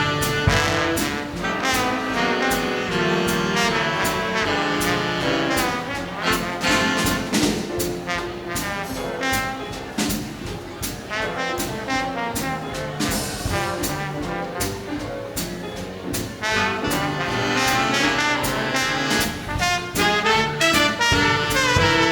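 Big band playing swing jazz, with a slide trombone soloing over the brass section and the rhythm section's steady beat.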